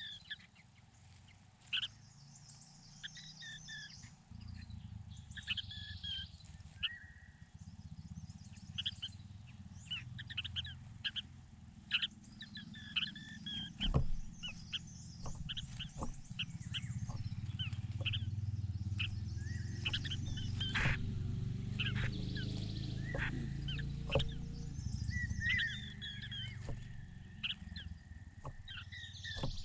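Small birds chirping: many short, high calls repeated throughout, over a low steady rumble that swells through the middle.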